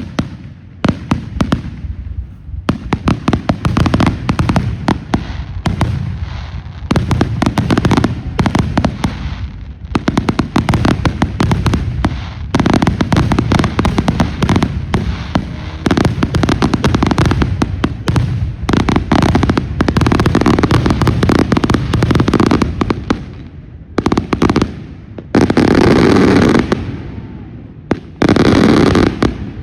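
Fireworks going off in rapid, dense volleys of crackling bangs, with a few brief lulls and two especially loud sustained bursts near the end.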